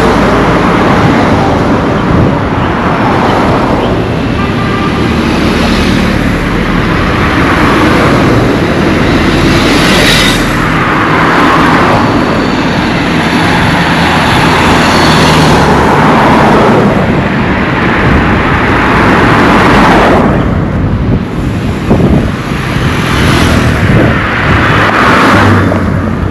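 Road traffic passing close by: a run of vehicles going by one after another, each swelling up and fading away over a steady traffic roar.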